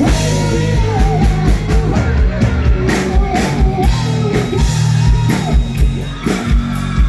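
Live rock band playing: drums keeping a steady beat under guitar and a singing voice.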